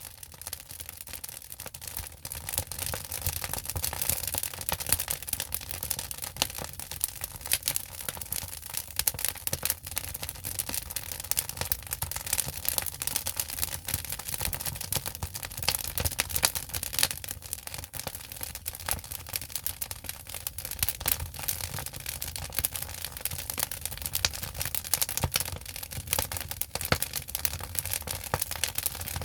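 Firewood burning in an agungi, a traditional Korean wood-fired firebox: a steady fire crackling and popping with dense, irregular sharp snaps.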